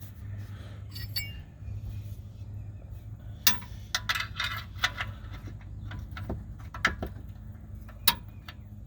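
Wrench on a truck's oil drain plug: scattered metallic clicks and clinks, a few loud ones, as the plug is worked with the wrench.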